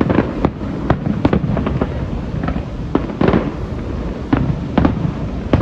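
A fireworks display: aerial shells bursting in quick succession, a dozen or so sharp bangs over a constant rumble of booms.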